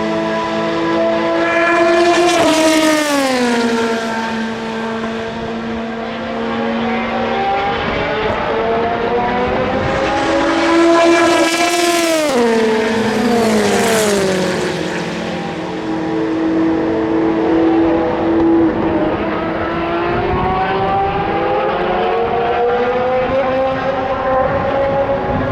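WEC endurance race cars at full speed, several engines sounding at once. Each car's engine note drops sharply in pitch as it passes, about three seconds in and again twice around the middle, and another approaching car's note climbs near the end.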